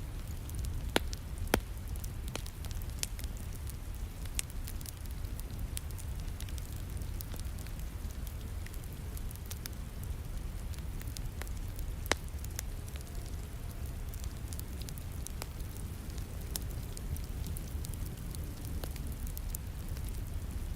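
Wood fire crackling in a fireplace, with sharp pops scattered throughout and a few loud ones, over a steady hiss of rain and a low rumble.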